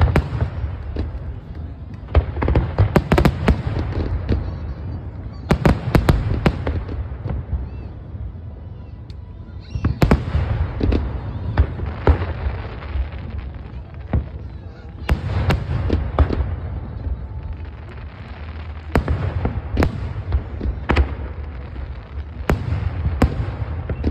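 Aerial fireworks shells bursting in clusters of sharp bangs every few seconds, over a continuous low rumble of booms.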